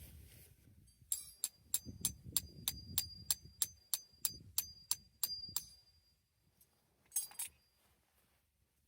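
A metal hammer driving a tent peg into the ground: a run of about fifteen ringing strikes, roughly three a second, then a brief clink near the end.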